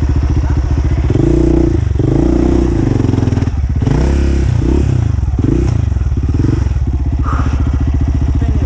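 Dirt bike engine idling with an even beat, then revved up and down in several quick blips for about six seconds before settling back to idle.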